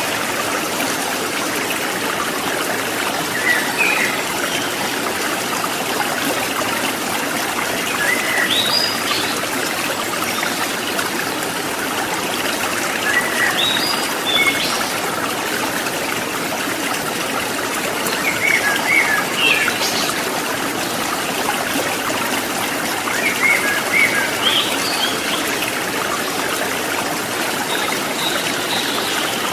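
Steady trickling and babbling of flowing stream water. Short bursts of small-bird chirps come in about every five seconds.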